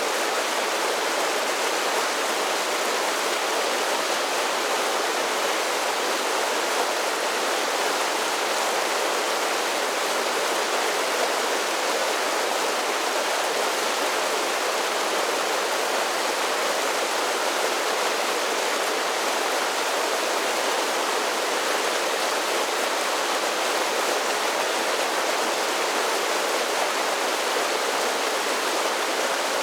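Mountain creek water rushing steadily over a series of small falls: an even, unbroken rush with little deep rumble.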